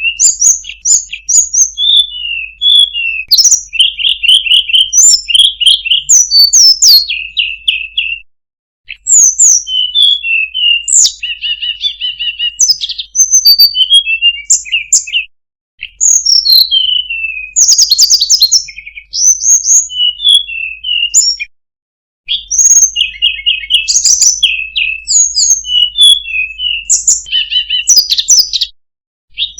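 Songbird song: fast, varied chirps, whistles and trills, sung in long phrases broken by short pauses about every six to seven seconds.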